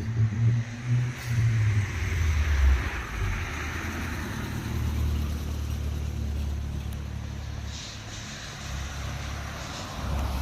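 A car drives past, its engine and tyre noise swelling and fading over the first few seconds, followed by a steady low rumble.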